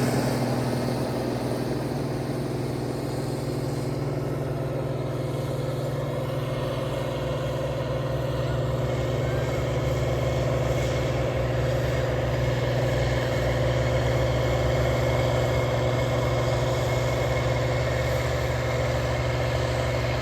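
International Harvester 4366 tractor's diesel engine running steadily while pulling a tillage implement, a continuous low drone that grows slightly louder about eight seconds in.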